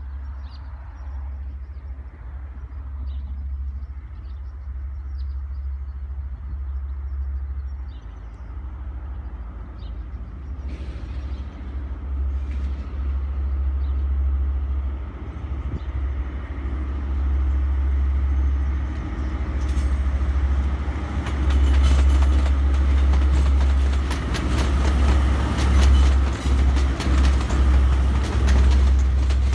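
A train approaching and growing steadily louder, with a heavy low rumble throughout and rattling wheel noise building over the last several seconds.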